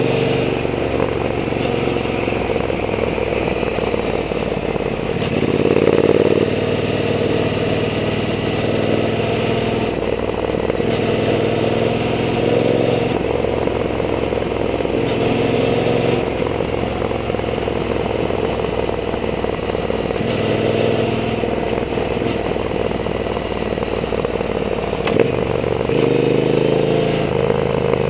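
Triumph Bonneville T120's 1200 cc parallel-twin engine through a Zard aftermarket exhaust while riding, the exhaust note rising and falling several times as the throttle is opened and rolled off. A single sharp click near the end.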